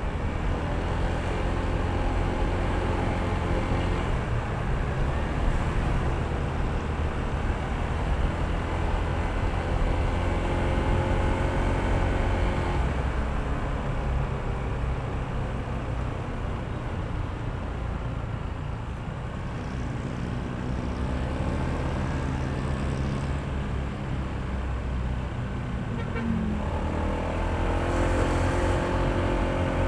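Honda ADV160 scooter's single-cylinder four-stroke engine running under way, its pitch rising and falling with road speed. The revs drop off about thirteen seconds in and climb again near the end as it accelerates.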